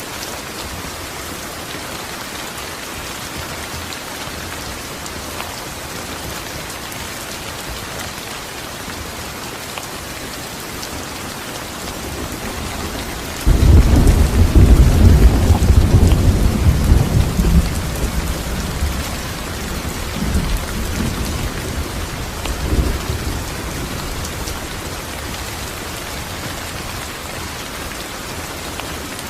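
Steady rain falling, with a sudden clap of thunder about halfway through that rumbles deep and loud for several seconds, then gives two weaker rolls before fading back into the rain.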